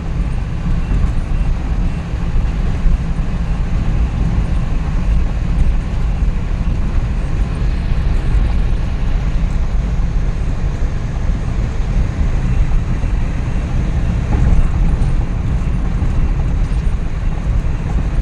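Steady engine and road noise heard from inside the cab of a Suzuki Every DA64V van on the move, its freshly rebuilt K6A three-cylinder engine running evenly at cruising speed. The rumble is deep and holds level throughout.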